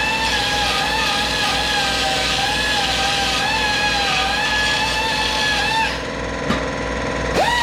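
Electric grinder running at speed with a steady high whine, grinding the edges of a cracked cast iron sink to prep them for welding. It shuts off about six seconds in, is blipped briefly, then spins back up with a rising whine near the end.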